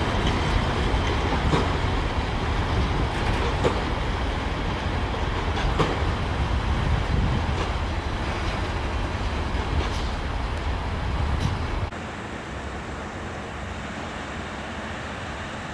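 Loaded double-deck car-carrier freight wagons rolling along the track: a steady rumble with scattered clicks of wheels over rail joints, slowly fading as the train draws away. About twelve seconds in it cuts to a quieter steady background noise.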